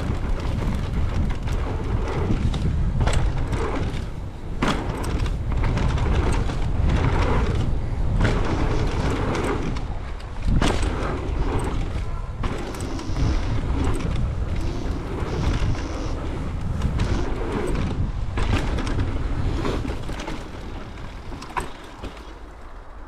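Mountain bike riding fast down a jump trail: wind blasting the rider's camera microphone and tyres rolling over dirt, with many sharp knocks and rattles from the bike over the bumps and landings. It dies down near the end as the bike slows.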